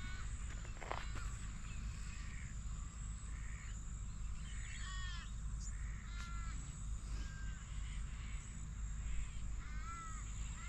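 Birds calling, short arching calls repeated about once a second, over a steady low rumble.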